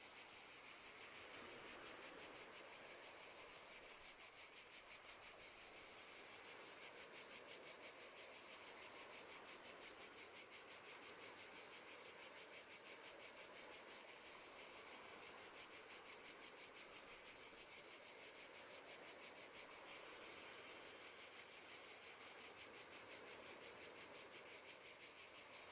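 Crickets chirping faintly in a steady, fast pulsing trill.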